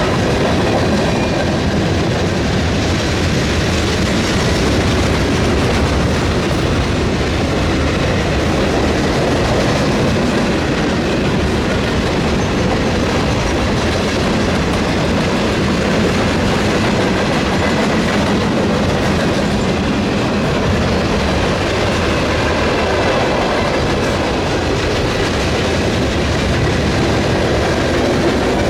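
Railroad freight cars rolling past, a steady loud rumble of steel wheels on rail.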